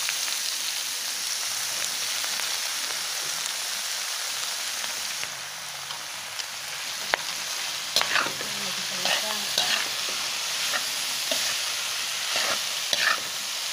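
Pre-boiled unripe jackfruit shreds sizzling steadily in hot oil in a metal pan. From about halfway through, a metal spatula scrapes and clinks against the pan several times as the jackfruit is stirred.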